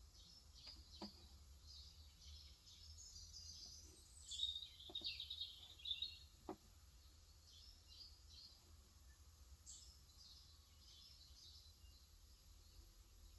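Birds chirping faintly in short high calls, busiest in the middle, with a few isolated soft keystrokes on a Cox Endeavor electro-capacitive (35 g) tenkeyless keyboard.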